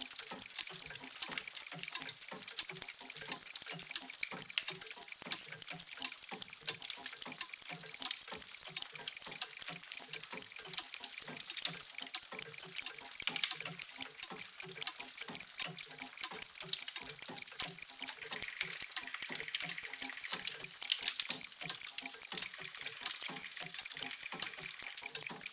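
Many mechanical clocks ticking at once, making a dense, steady patter of overlapping ticks with no single beat standing out.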